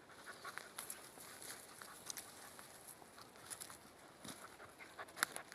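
Footsteps crunching through forest undergrowth, with irregular faint crackles of twigs and litter underfoot and one sharper snap about five seconds in.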